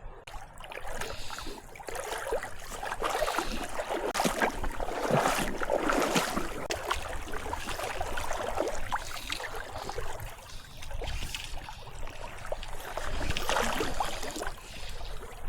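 River water splashing and sloshing irregularly, loudest in the middle stretch, as when someone moves through a shallow river.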